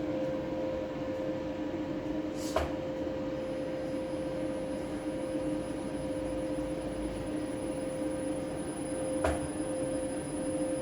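LS iP5A industrial inverter (VFD) running on test, giving a steady electrical hum with a faint high whine that joins about three seconds in. Two sharp clicks come through, one about two and a half seconds in and one near the end.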